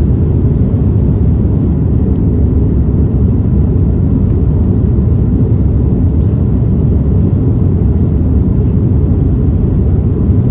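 Steady low rumble of an Airbus A330-300's Rolls-Royce Trent 700 engines and airflow, heard inside the passenger cabin. Two faint ticks come through, one about two seconds in and one about six seconds in.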